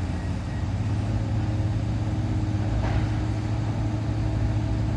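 Demolition excavator's engine running steadily, a low hum.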